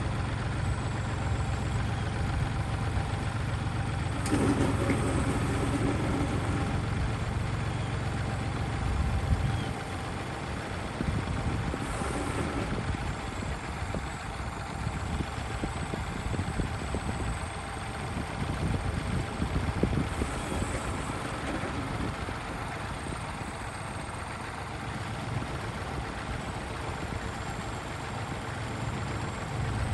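Kubota tractor's diesel engine running steadily while the tractor works with pallet forks to lift a barn pole. It is a little louder for the first ten seconds or so, then settles slightly quieter.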